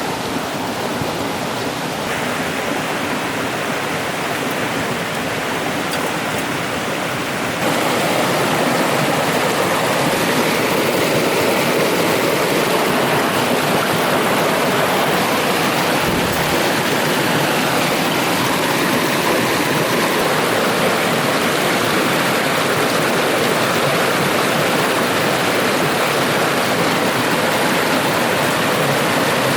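A mountain stream's water running steadily, an even rushing noise that gets louder about eight seconds in.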